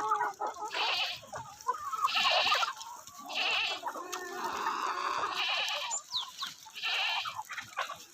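Black Australorp chickens and chicks calling, with high-pitched bursts about once a second and a few short falling peeps near the middle.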